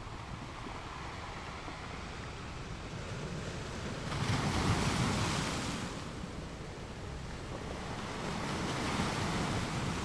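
Ocean waves washing onto a shore: a steady wash of surf, with one wave breaking louder about four seconds in and a smaller one near the end.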